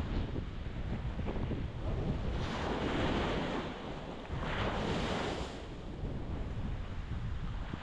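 Ocean surf breaking on the shore in a continuous wash, with two louder surges of breaking water about two and a half and four and a half seconds in, over low wind rumble on the microphone.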